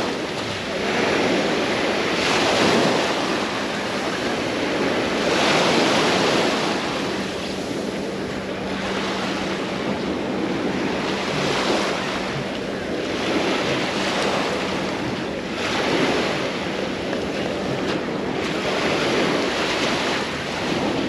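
Small sea waves breaking on the shore, the wash swelling and falling every few seconds, with wind on the microphone.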